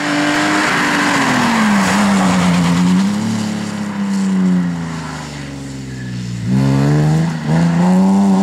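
BMW E30 rally car's engine at full race pace: the note drops over the first couple of seconds, with a rough hiss of tyre noise, as the car slows for a corner, then revs climb hard again, broken by two quick gear changes near the end.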